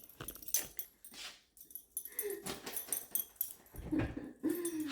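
Dog whining in short whimpers, excited at being told it is going for a walk, with a few light clicks and taps around it.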